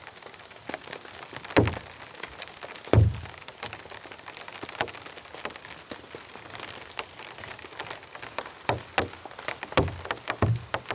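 Rain falling through the forest: a steady patter of sharp, irregular drops. A few heavier dull thuds come about a second and a half and three seconds in, and several more in the last two seconds.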